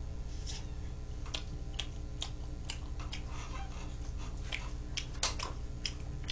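A person chewing a mouthful of food close to the microphone, with short wet mouth clicks at irregular intervals.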